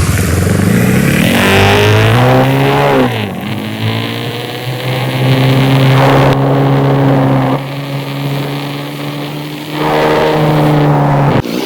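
Motorcycle engine under way. Its pitch rises as it accelerates, drops sharply at a gear change about three seconds in, then holds a steady speed. There is another brief dip near the end.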